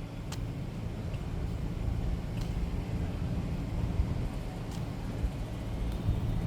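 Road traffic on a town street: a steady low rumble of motor vehicle engines and tyres.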